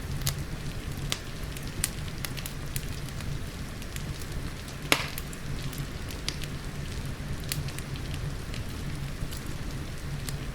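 Wood fire in a fireplace crackling with irregular sharp pops, one louder pop about five seconds in, over a steady hiss of rain and a low rumble.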